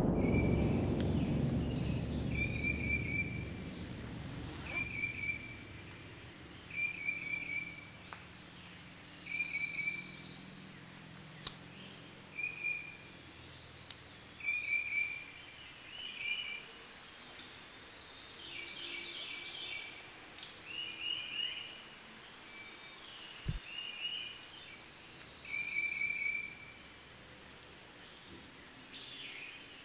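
Woodland ambience: a bird repeats a short trilled chirp every one to two seconds over a faint steady high hum. A low rumble fades away over the first few seconds.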